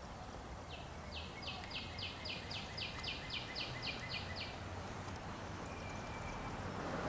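Northern cardinal singing a fast run of about fourteen sharp downslurred whistles, about four a second, that stops a little past halfway. A brief click comes at the very start.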